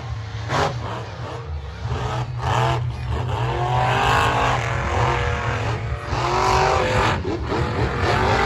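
Monster truck engines revving hard in a side-by-side race, the pitch climbing and dropping in several surges over a deep steady rumble. The loudest surges come about four seconds in and again near seven seconds.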